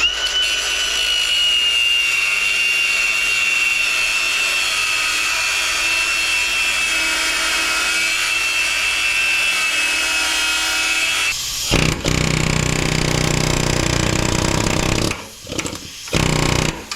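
Handheld power tool cutting metal on a skid steer's quick coupler, right at the pin. A steady high whine sags slightly under load for about eleven seconds, then gives way to a lower, rougher run and a short last burst near the end.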